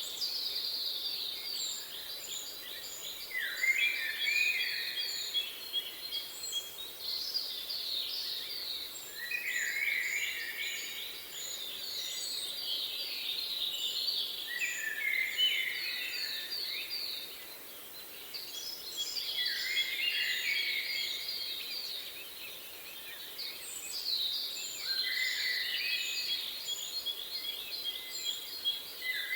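Songbirds singing: one bird repeats a fast, trilled song phrase that drops in pitch at its end, about every five or six seconds, while another gives a run of short, thin, very high notes.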